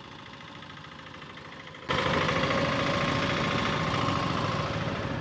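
Single-cylinder KTM motorcycle engine running while riding, with a steady mid-pitched drone. It turns suddenly much louder about two seconds in.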